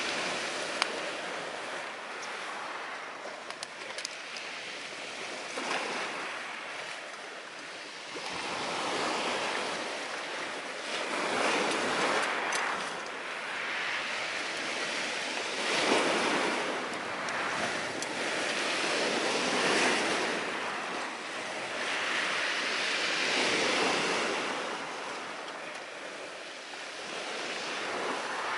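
Sea surf breaking on a shore, swelling and receding about every four seconds. A few sharp crackles from a small wood fire burning in a stove are heard in the first half.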